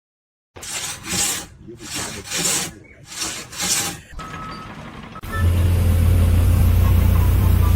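Back-and-forth rasping strokes, six in three pairs, like a hand saw or file working wood. From about five seconds in, a steady low machine drone takes over.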